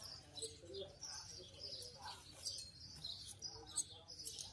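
Small birds chirping and tweeting over and over, faint, with faint voices murmuring in the background.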